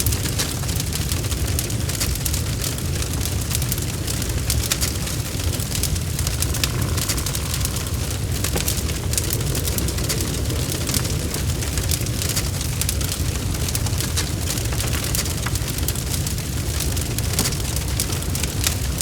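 Log fire burning steadily: a constant low rumble of flames with a dense scatter of small crackles and pops from the burning wood.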